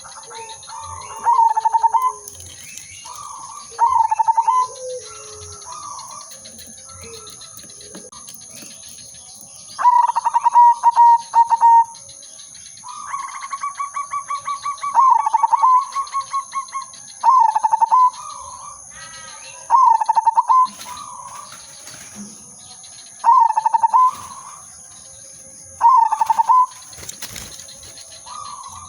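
Zebra dove (perkutut) cooing: repeated phrases of quick stuttering notes that end in a drawn-out coo, about one phrase every two seconds, with a longer run of rapid pulsed notes in the middle. Two steady high-pitched tones run underneath.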